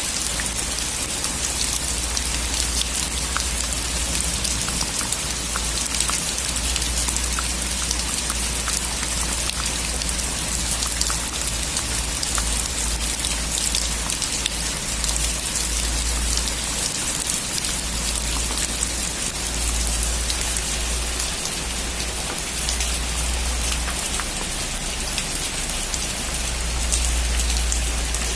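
Steady heavy rain, a dense hiss of many drops ticking on surfaces, over a low rumble that swells and fades.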